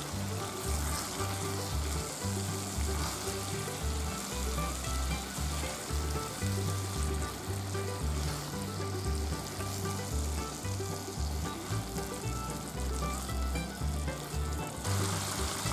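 A stir-fry of eggplant, pork belly, tofu and egg sizzling in a frying pan as it is turned over with a spatula, and the sizzle grows brighter near the end. Background music with a low bass line plays underneath.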